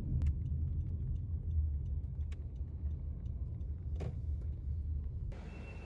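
Car running on the road, heard as a steady low rumble inside the cabin with light ticking clicks over it. A louder click comes about four seconds in. Near the end the rumble drops off abruptly and a faint high tone sets in.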